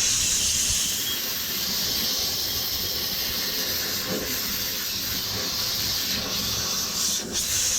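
Blow gun hissing steadily as compressed gas is blown through an air-conditioning condenser coil to knock loose debris off it, with a brief break about seven seconds in.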